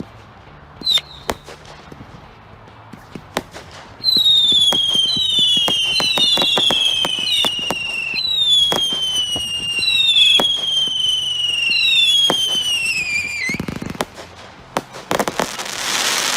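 Sky Ambush 73-shot fanned firework barrage firing its whistle effects. Scattered sharp reports come first; about four seconds in, a run of shrill whistles starts, each falling in pitch and several overlapping, with shots among them. A low thud follows, then a loud hissing burst near the end.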